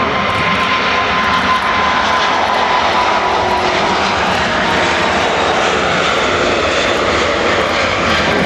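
Airbus A380-861's four Engine Alliance GP7200 turbofans running at high thrust during take-off: a loud, steady jet roar with a faint high whine that slowly drops in pitch.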